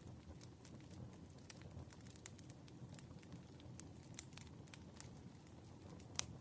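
Faint campfire crackling: scattered sharp pops over a low steady rumble, with one louder pop near the end.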